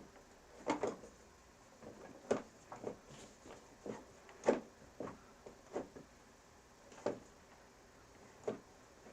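Studio equipment being handled and set in place: a series of short, irregular knocks and clunks, about eight of them.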